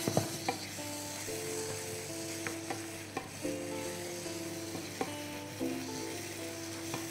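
A wooden spatula stirring a spice masala with tomatoes and chopped greens frying in a non-stick pan: a steady sizzle with a few sharp knocks of the spatula against the pan at irregular moments.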